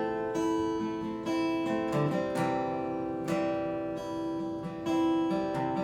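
Acoustic guitar strummed chords, an instrumental passage between the sung lines of a song.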